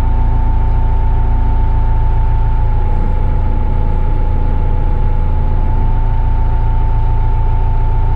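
Caterpillar IT-24 loader's diesel engine running steadily under a slow lift, with a constant high whine over the low rumble; the engine note shifts about three seconds in.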